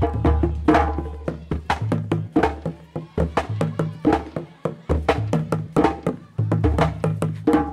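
Traditional Malian tam-tam hand drumming: a fast, dense rhythm of sharp strikes, several a second, over a deep low boom.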